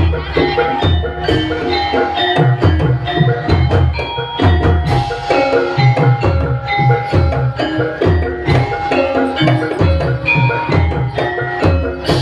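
Javanese gamelan music: interlocking bronze metallophone and gong-chime notes over a steady beat of low hand-drum strokes, accompanying a gedruk buto dance.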